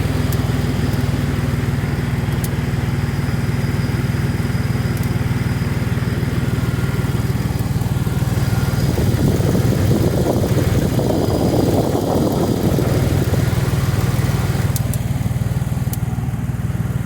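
Dodge pickup engine idling steadily, with an exhaust leak the owner has found. About ten seconds in it grows louder and rougher for a few seconds, then settles back.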